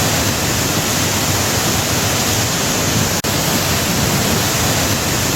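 Loud, steady rushing of floodwater, with a momentary break about three seconds in.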